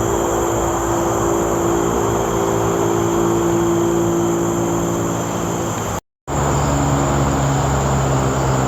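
Steady traffic noise from a main road: a continuous rumble of passing cars and other vehicles, with a constant high insect buzz over it. The sound cuts out completely for a split second about six seconds in.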